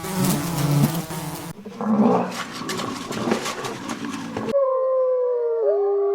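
Wild animal calls: a harsh, noisy call, then after a sudden cut about four seconds in, long drawn-out smooth calls from at least two animals, one holding a steady pitch while another glides up and down.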